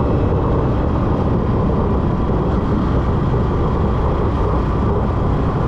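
Steady road noise of a moving motorcycle: engine and tyres rumbling under wind noise on the microphone.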